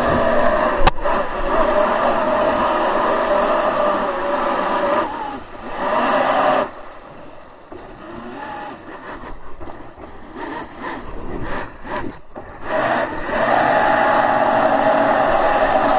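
Electric jet kayak's motor and jet drive running with a steady whine. It drops away for several seconds from about six and a half seconds in, then comes back steady near the end.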